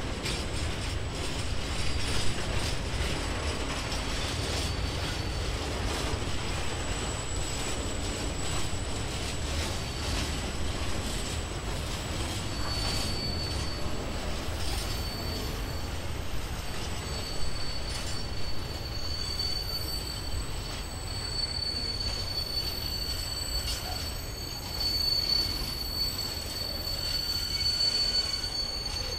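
Freight train of open coal wagons rolling past, the wheels squealing with a thin high whine that grows plainer about halfway through, over a steady low rumble and scattered clicks from the wheels over rail joints.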